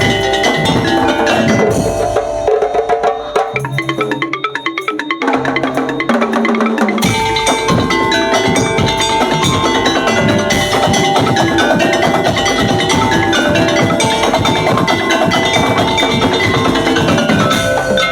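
Percussion-led ensemble music: tuned, mallet-struck percussion over drums. A few seconds in, the drums drop out briefly, leaving held low notes, and the full ensemble comes back in about halfway through.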